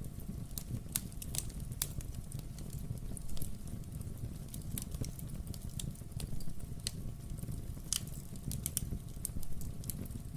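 Wood fire in a fireplace: burning logs crackling with irregular sharp pops and snaps over a steady low rumble of the flames.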